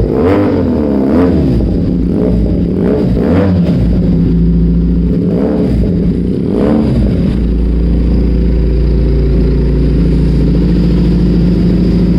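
Benelli 302R's 300 cc parallel-twin engine blipped through its exhaust in a series of short revs that rise and fall, then settling to a steady idle about seven seconds in.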